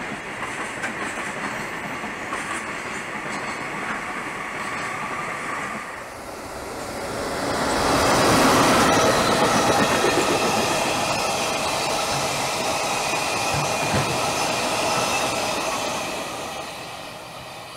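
A train running with wheel clatter; about six seconds in, an electric-hauled freight train passes close by, the sound swelling to its loudest as the locomotive and loaded flat wagons roll past, then fading near the end.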